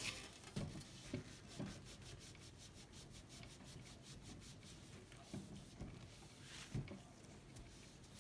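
Faint rubbing on the painted steel of a vintage bicycle frame, quick even strokes, with several soft knocks as it is handled.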